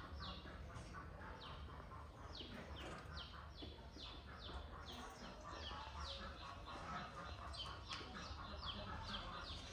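Birds chirping: a quick, continuous run of short calls, each falling in pitch, several a second, over a low steady rumble.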